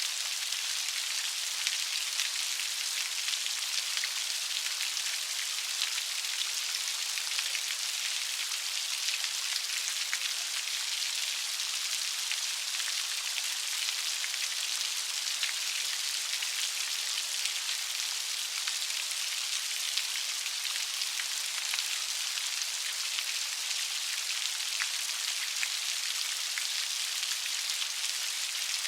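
Steady light rain: an even hiss of many small drops pattering, without thunder.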